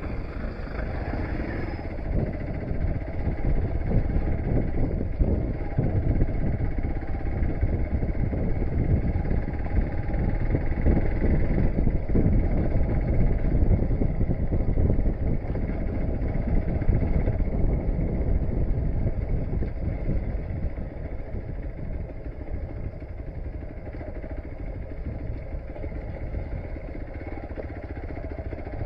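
Motorcycle riding over a rough off-road track: engine running under load with jolts and rumble from the uneven ground. It eases off a little about two-thirds of the way through.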